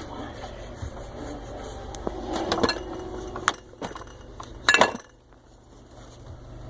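Glass jars and food containers clinking and knocking as they are handled in a refrigerator: a few separate knocks, the loudest pair a little before the middle.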